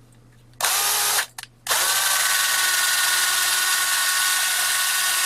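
Power drill spinning a steel wire brush: a short burst, a brief blip, then a steady run from about a second and a half in, the brush scrubbing caked gunk and rust off the steel top bar of a vintage hand drill.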